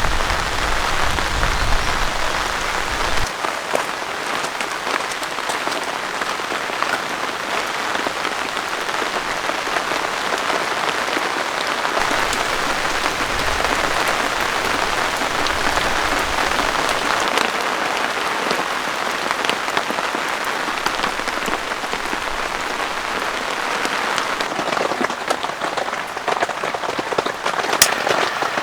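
Steady heavy rain, with many individual drop hits sounding through it. A low rumble underneath stops about three seconds in, and a single sharp click comes near the end.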